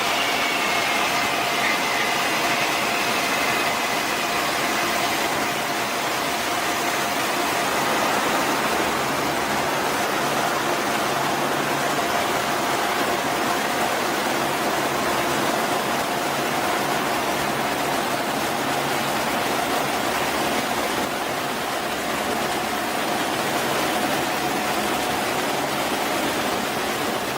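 Su-57 fighter jet's twin turbofan engines running: a steady rush of jet noise with a high whine that falls in pitch over the first few seconds, over a steady lower hum.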